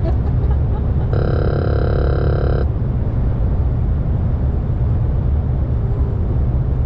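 Steady low rumble of road and wind noise in the cab of a Mercedes eActros electric truck at speed. About a second in, a steady electronic warning tone from the dashboard sounds for about a second and a half, then cuts off.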